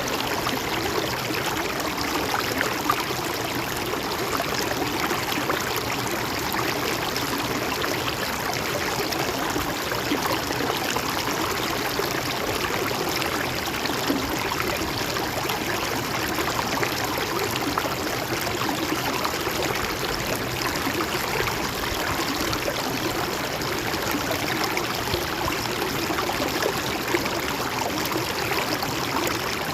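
A gently flowing river, a steady rush of running water that stays unchanged throughout.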